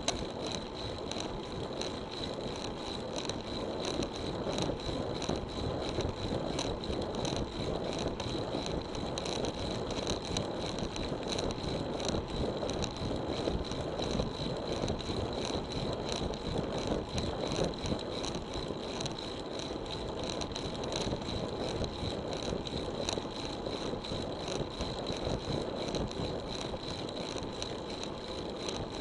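700c road bike being ridden: steady rolling and road noise with wind on the microphone, fast even ticking, and a thin steady high tone.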